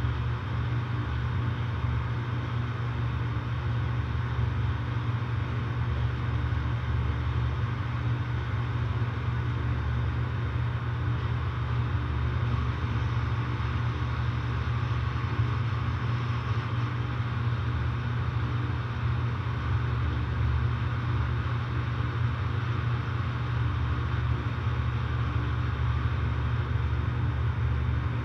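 Outdoor air-conditioner condenser unit running steadily: a low, even compressor hum under the condenser fan's rushing noise. The compressor is one that the person filming suspects is showing signs of failing after a rough startup.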